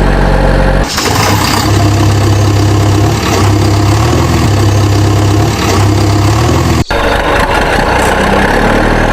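Heavy engine running steadily with a low hum, breaking abruptly about a second in and dropping out for an instant near seven seconds, as edited-in audio does.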